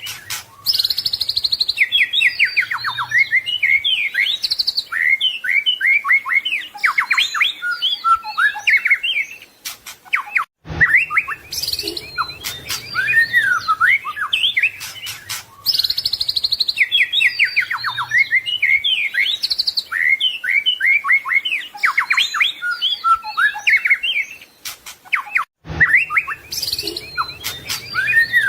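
White-rumped shama (murai batu) singing a continuous, rich song of fast trills, whistles and varied mimicked phrases. The same song sequence repeats about every fifteen seconds, with a brief gap and a click at each repeat, twice.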